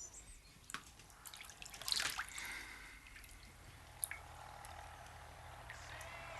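Water dripping in small irregular clicks, with a louder sharp sound about two seconds in.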